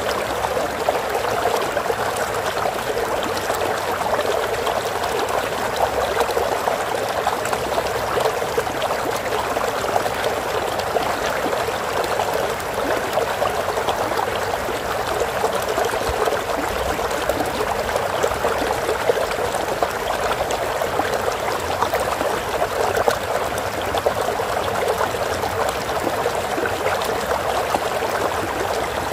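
Water flowing steadily in a stream, an even rushing and trickling with no pauses or changes.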